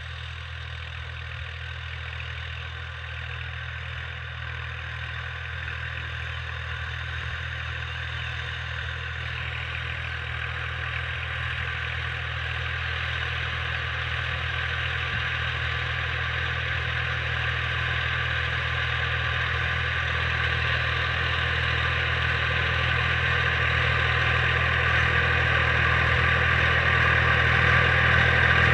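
Massey Ferguson 1035 DI tractor's diesel engine running steadily, growing gradually louder throughout.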